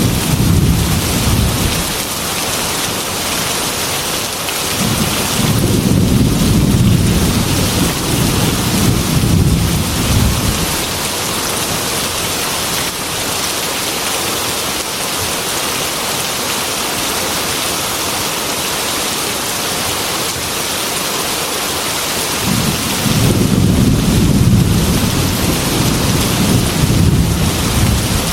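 Heavy rain pouring steadily on a glass window, with deep rolls of thunder: one fading just after the start, a long one from about five to ten seconds in, and another from about twenty-three seconds in.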